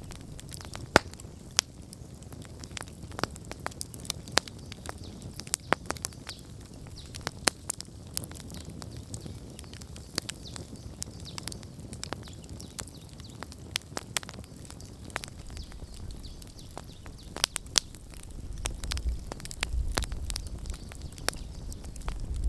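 Wood campfire crackling, with irregular sharp pops and snaps. A low rumble swells in the last few seconds.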